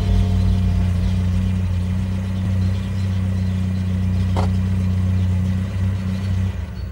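Car engine running at a steady low hum, with a single short click a little past the middle.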